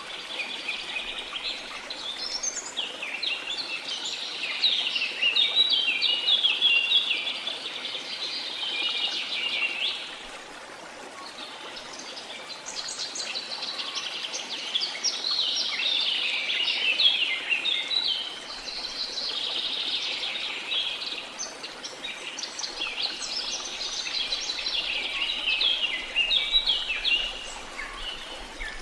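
A dense chorus of small birds chirping rapidly and continuously, easing off briefly about a third of the way through, over a faint steady rush of flowing water.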